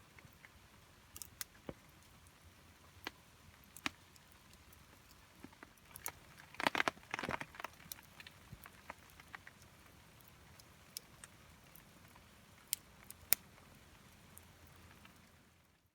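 Campfire crackling: scattered sharp pops and snaps over a faint hiss, with a brief flurry of louder crackles about seven seconds in, fading out near the end.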